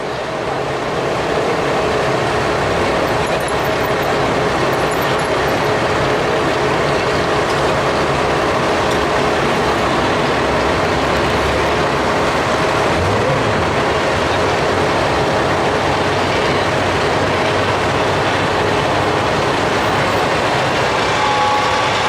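A vehicle engine running steadily, getting louder over the first couple of seconds.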